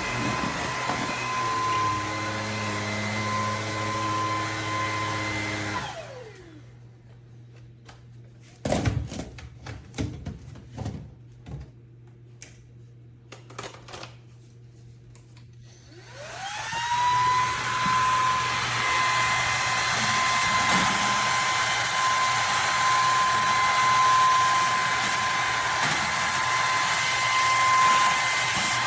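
Bissell PowerClean FurGuard cordless stick vacuum running with a steady high whine, switched off about six seconds in so the motor winds down. After several seconds of knocks and clicks from handling, it is switched back on: the motor whine rises as it spins up, then runs steadily.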